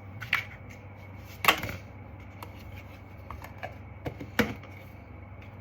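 A few sharp knocks and clicks of kitchen things being handled and set down, the loudest about one and a half seconds in, over a low steady hum.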